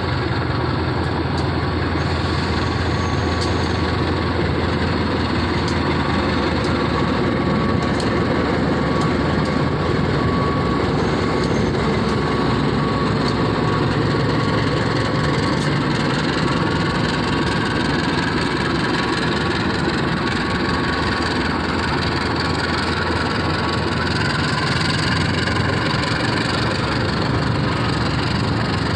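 Mutiara Timur passenger train's diesel locomotive and carriages running: a loud, steady engine and rolling noise, with a faint tone wavering up and down in the later part.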